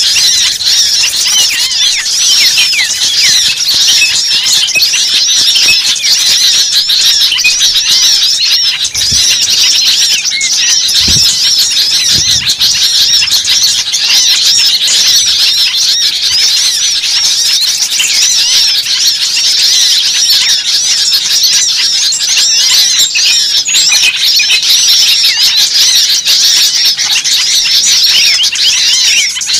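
Dense, loud chorus of many small birds calling over each other without a break: rapid high chirps and agitated, alarm-like calls. This is a bird-lure recording of noisy small birds, played to draw other birds in.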